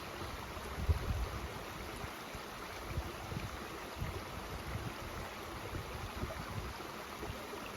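Mountain stream flowing with a steady rush, with low wind buffets on the microphone, strongest about a second in.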